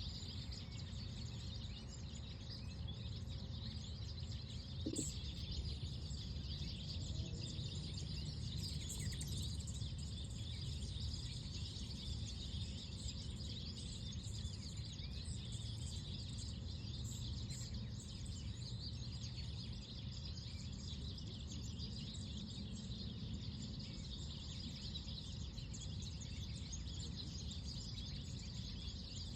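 Outdoor park ambience: a steady low background rumble with small birds chirping faintly and continually throughout.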